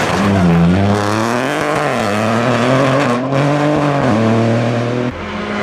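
Rally car engine working hard through a stage, the revs dropping and climbing again several times as the driver shifts and feathers the throttle, then backing off sharply near the end.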